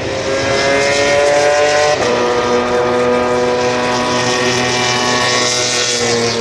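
Racing car engine running at high revs, its pitch climbing, then a gear change about two seconds in, after which the note holds and slowly falls.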